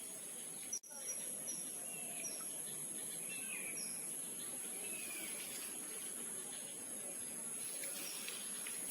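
Outdoor natural ambience: a steady high-pitched insect drone with scattered short bird chirps, and a brief gap a little under a second in.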